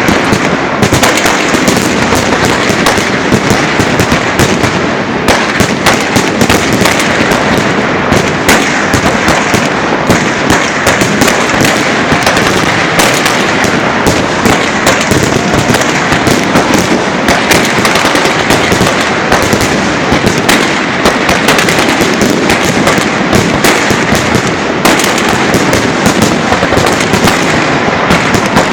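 Fireworks salute launchers firing a continuous barrage: dense, overlapping bangs and crackling bursts with no pause.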